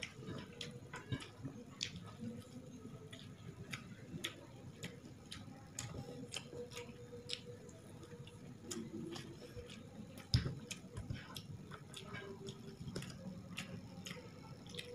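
Wet, irregular mouth clicks and smacks of a person chewing mouthfuls of rice and chicken eaten by hand, with a faint steady hum underneath and one dull thump about ten seconds in.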